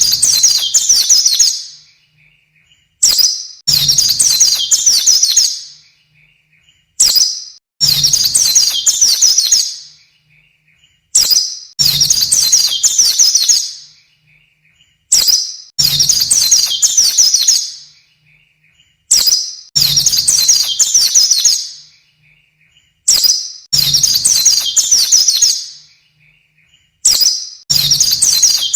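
White-eye (pleci) song on a looped training recording: a short high call followed by about two seconds of rapid twittering song, repeated every four seconds.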